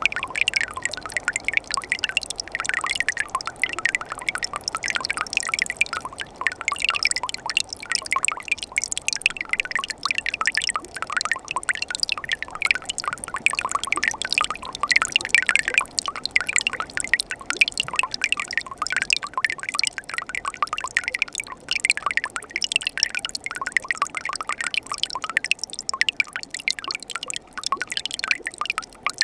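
Small mountain stream running over rocks and around ice, with a steady mix of trickling, splashing and dripping water.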